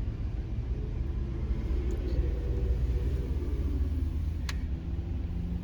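Steady low rumble of a car on the road, with one sharp click about four and a half seconds in.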